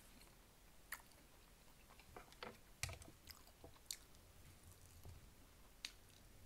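Faint close-miked chewing and biting into a fried pork chop held in the hand, with a scattering of sharp mouth clicks, most of them between about one and four seconds in.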